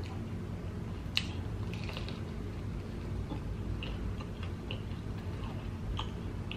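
A person biting into a crunchy fried egg roll, with one sharp crunch about a second in, then chewing with a few smaller crunches and mouth clicks.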